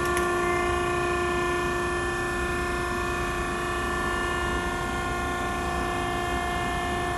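Maren cardboard baler's hydraulic power unit running as the platen is raised, a steady droning hum with several held tones.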